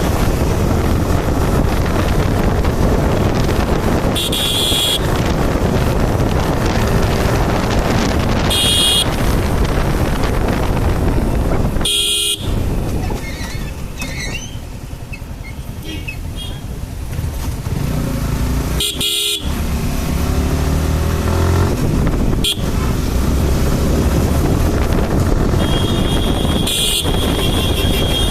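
Wind rush and road noise from a motorcycle ride, broken by several short horn toots and a longer horn blast near the end.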